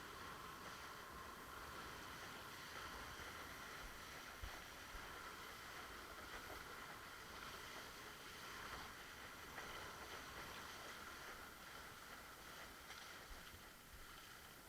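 Faint steady rush of water along a windsurf board as it sails, with light wind noise.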